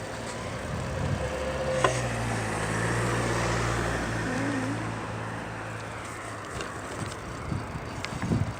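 A motor vehicle passing by, its low engine hum swelling over a few seconds and then fading away. A sharp click sounds about two seconds in.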